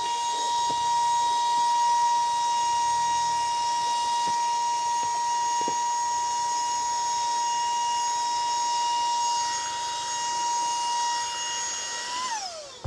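Cordless handheld car vacuum running with a steady high whine over the rush of air, then switched off near the end, its whine falling in pitch as the motor spins down.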